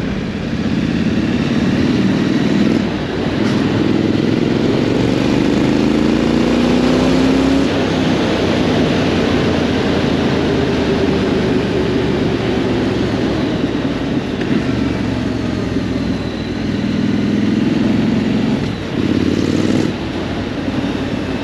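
Triumph Scrambler 900's parallel-twin engine pulling under way, its pitch climbing as it accelerates, with a brief break for a gear change about three seconds in and again near the end, over steady wind noise.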